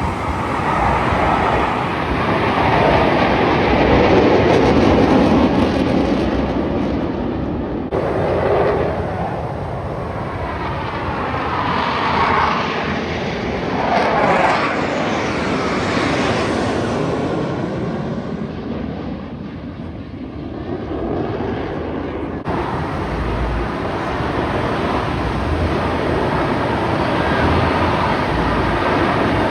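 Jet engine noise from F/A-18 Super Hornet display jets flying past, swelling and sweeping up and down in pitch as they pass. The sound changes abruptly about 8 seconds and 22 seconds in.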